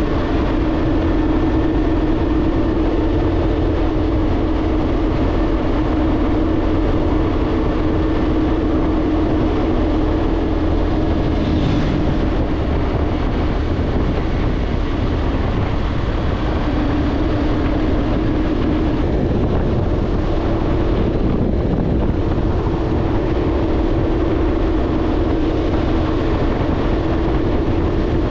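BMW R1200GSA motorcycle's flat-twin engine running at a steady cruise, with constant wind rush over it.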